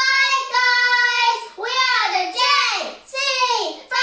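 A child singing high, long held notes, with swooping slides up and down in the middle.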